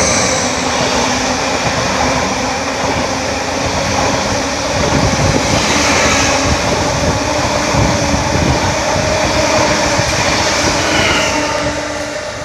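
Greater Anglia Class 745 Stadler FLIRT electric multiple unit passing close by at speed: a loud, steady rush of wheels on rail and air with a faint steady electric hum, easing off near the end as the train clears.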